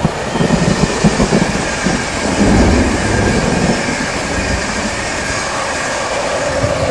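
Electric express passenger train, an InterCity 225 set, passing at speed: a heavy rumble with wheel clatter, then a steady roar as the coaches go by, and a whine that falls in pitch near the end as the locomotive passes.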